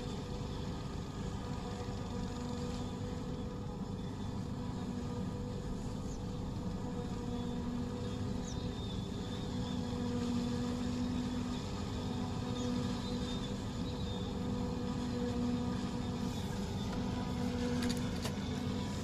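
Tractor engine running steadily under load, driving a silage cutting machine, with an even mechanical hum. A few short clicks near the end.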